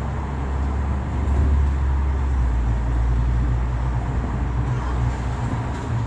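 Steady low rumble with a faint hiss behind it.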